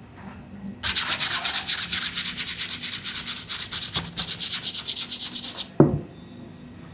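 A brush scrubbing a sneaker in rapid back-and-forth strokes, starting about a second in and stopping near the end, followed by one short thump.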